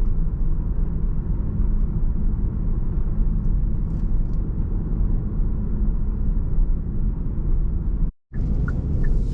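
Steady low rumble of a car's engine and tyres heard from inside the cabin while driving slowly on a city road. The sound cuts out completely for a moment about eight seconds in, then resumes.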